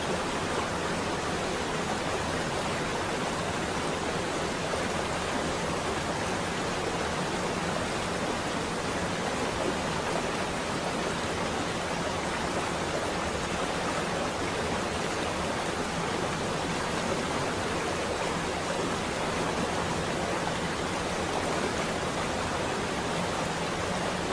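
Rain falling steadily on a window, an even hiss with no thunderclaps.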